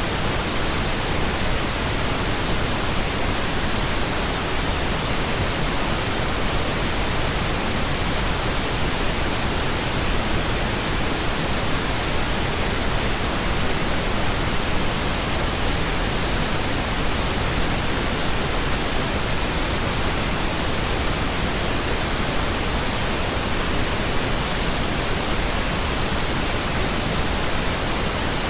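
Steady synthetic pink noise: an even, unchanging hiss with no breaks or changes.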